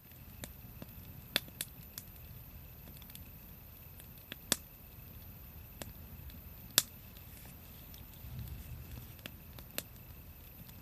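Wood fire crackling: scattered sharp pops and snaps at irregular intervals, the loudest nearly seven seconds in, over a faint low rumble.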